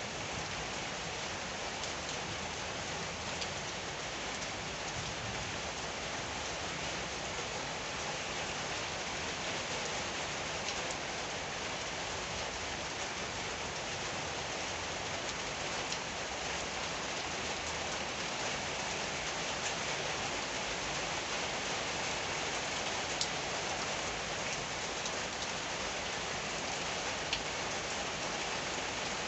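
Steady rain falling, an even hiss, with a couple of sharper drop hits near the end.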